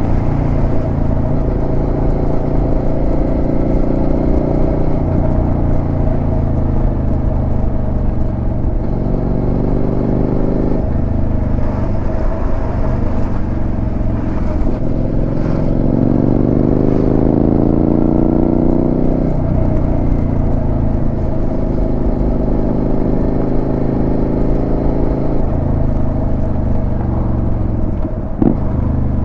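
Suzuki SV650's 645 cc 90-degree V-twin running through a Delkevic aftermarket exhaust on the move. The engine note holds steady for long stretches, rises through the middle as the bike accelerates, and changes pitch suddenly a few times.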